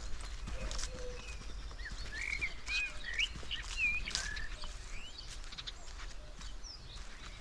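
Footsteps crunching on the forest floor during a walk, with a bird's cluster of short chirps about two seconds in.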